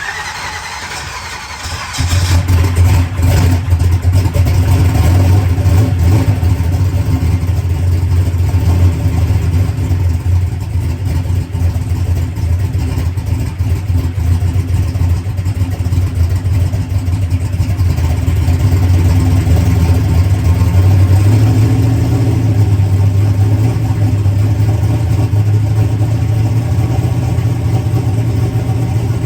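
Turbocharged drag car's engine running at idle on its new Enderle fuel pump. It comes in loud about two seconds in after a short falling whine, holds a steady note, then rises slightly in pitch for a few seconds past the middle before settling again.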